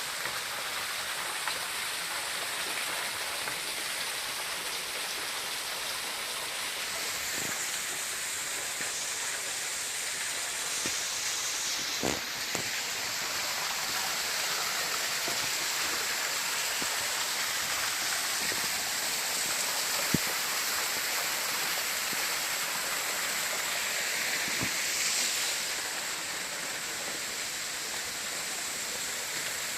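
Steady rush of running water, such as a stream or small waterfall, with a few faint clicks or knocks scattered through it.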